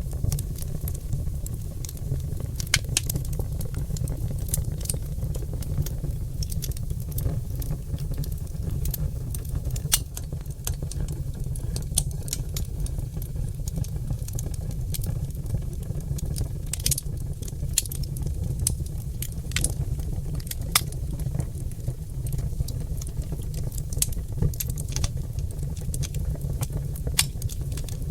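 Oak-log wood fire burning in a fireplace: sharp crackles and pops at irregular intervals over a steady low rumble.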